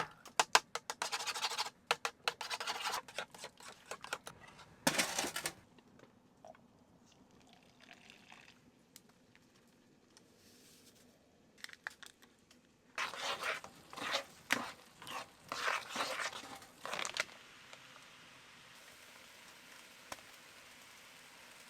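Crinkling, tearing and crunching noises in two spells: one at the start and a second a little past the middle, with a faint steady hiss after it.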